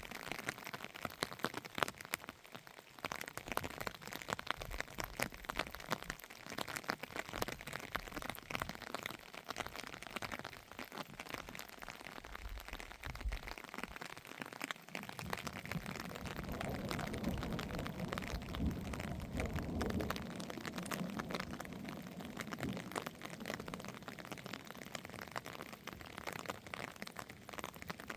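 Rain pattering steadily in a dense spatter of drops, with a low rumble building up about halfway through.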